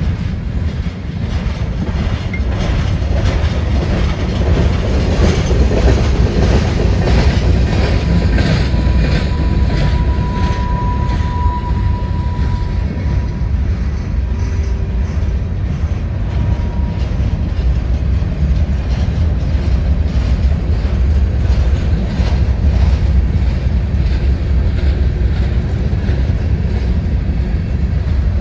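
Freight train rolling past, a heavy steady rumble with wheels clicking over the rail joints. A thin high wheel squeal is heard for several seconds around the middle.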